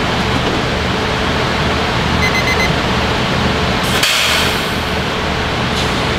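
Steady running noise and low hum of a diesel-hauled passenger train, with a few short high beeps about two seconds in and a brief hiss of air about four seconds in.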